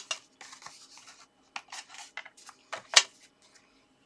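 Scored cardstock being folded along its score lines and burnished flat: a run of short, crisp rustles and scrapes, with a sharper tap about three seconds in.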